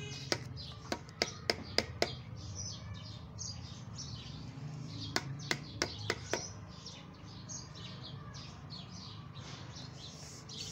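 Small birds chirping steadily, with a low steady rumble underneath. Sharp taps come in a quick run near the start and again about five to six seconds in, from a spoon on a plastic spice box.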